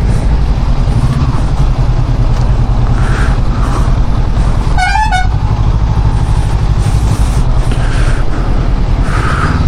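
Honda CB500X parallel-twin engine running at low speed in stop-and-go traffic, a steady rumble. About five seconds in, a vehicle horn gives one short toot.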